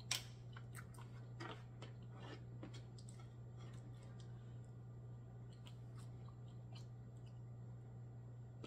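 Close-miked mouth sounds of chewing a mouthful of black mussel and rice, with small wet clicks and smacks. A single sharp click sounds right at the start.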